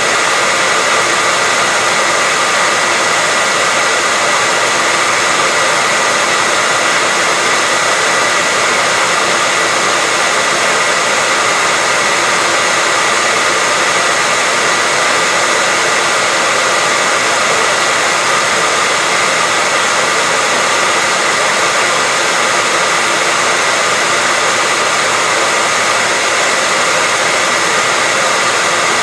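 Hair dryer blowing steadily: a constant hiss of rushing air with a steady high hum from the motor, unchanging throughout.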